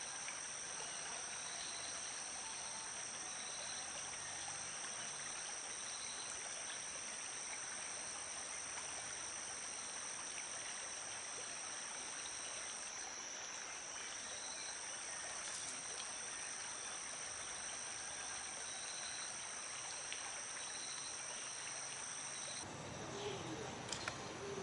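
Steady high-pitched chorus of insects, two continuous shrill tones, with a faint short chirp repeating about every two seconds. The higher of the two tones stops a few seconds before the end, and a few soft clicks follow.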